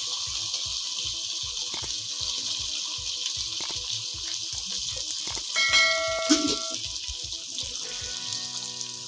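Raw chicken pieces sizzling in hot oil and spice paste in a wok, a steady hiss. A brief ringing tone sounds a little past the middle.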